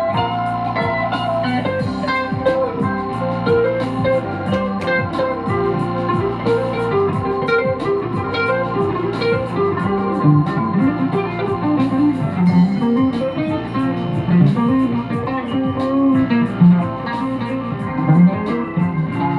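Guitar music: a plucked guitar playing a quick run of notes over a low line that moves up and down.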